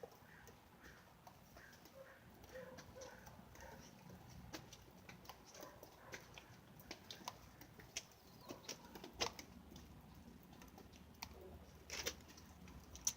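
Near silence with faint, irregular clicks and light taps scattered through it.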